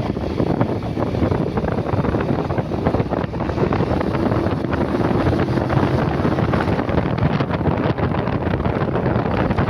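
Heavy wind buffeting on the microphone of a moving motorcycle, with vehicle running noise underneath.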